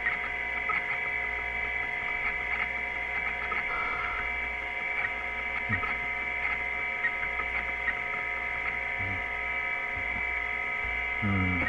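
Steady electrical hum made of several held tones over a low rumble, with faint scattered ticks and a couple of brief low knocks.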